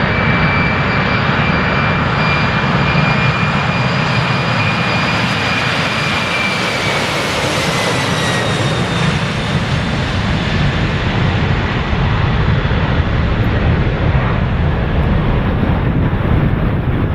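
Jet engines of a Boeing 767-300ER airliner at takeoff, a loud steady rush with a high whine that drops in pitch about seven seconds in as the aircraft passes.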